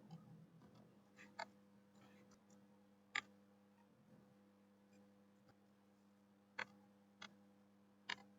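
Near silence with a faint steady hum, broken by about five short, sharp clicks at uneven intervals from someone working a computer's mouse or keys.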